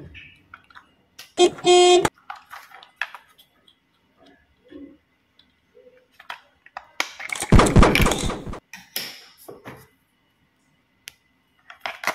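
A short horn toot about a second and a half in, then a loud noisy rush around seven and a half seconds, with scattered small clicks and rattles between.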